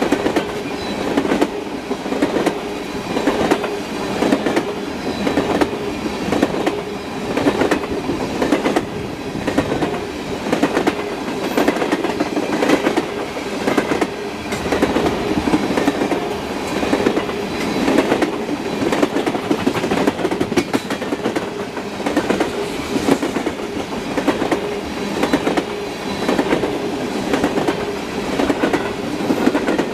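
Freight train of tank cars rolling past at speed: steel wheels on the rails, a steady rumble with a quick run of clicks over the rail joints that swells again and again as each car goes by.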